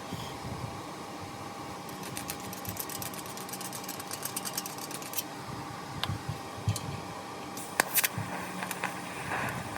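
TIG welder at work: a steady machine hum with a fixed tone under it, and from about two to five seconds in a fast run of crackling clicks, typical of the TIG arc. A few sharp clicks follow near the end, the loudest about eight seconds in.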